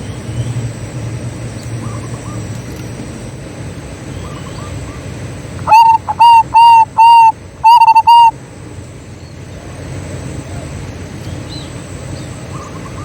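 Zebra dove (perkutut) cooing: a quick run of about six loud, clear notes in under three seconds, with a short break before the last two. Faint short bird calls and a low steady background hum run around it.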